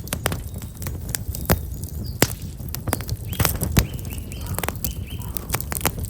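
Black locust firewood burning in a campfire: irregular sharp crackles and pops, several a second. Small birds chirp faintly in the middle.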